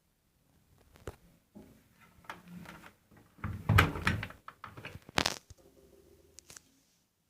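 AEG washing machine running a wash cycle, giving irregular clunks and knocks. A heavier rumbling thud comes about three and a half seconds in, and a sharp click follows about a second later.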